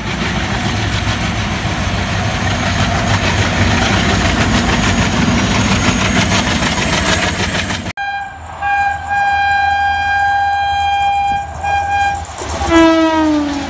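A pair of diesel locomotives passes close by, engines running and wheels clattering on the rails in a steady loud rumble. Then a WAP7 electric locomotive sounds a long horn blast as it approaches at speed. Near the end the horn's pitch drops sharply as the train rushes past.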